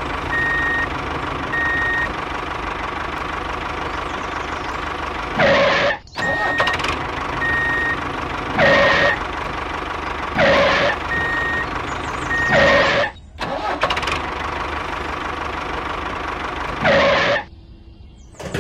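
Vehicle engine running steadily, with a repeating high electronic beep like a reversing alarm, about one beep a second. It is broken by five short, loud bursts of noise spread through the stretch.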